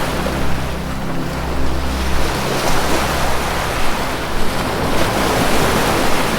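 Ocean surf, a wave swelling and washing in through the middle, over a low sustained music drone that is clearest near the start and end.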